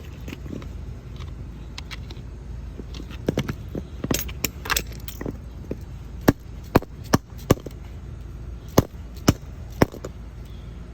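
Sharp metallic clicks and knocks of metal parts and a tool on a dismantled Prius electric AC compressor being worked apart by hand: a brief cluster a few seconds in, then about seven separate crisp taps roughly half a second apart.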